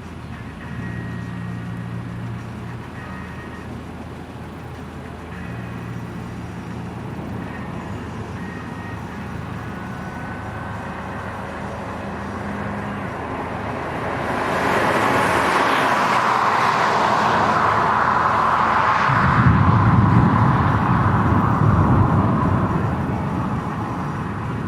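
Vehicle running with a low steady hum. About halfway through, a loud rushing noise builds, and a heavy low rumble joins it a few seconds later.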